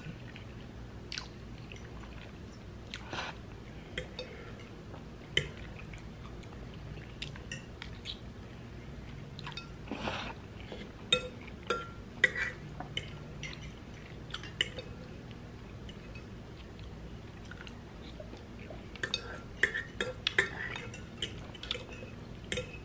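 Close-up chewing of spaghetti, with scattered short clicks and scrapes of a metal fork against the bowl. The clicks bunch up near the end.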